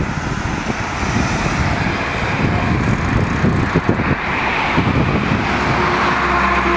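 Outdoor road traffic noise with heavy low rumble. About six seconds in, a steady engine hum sets in.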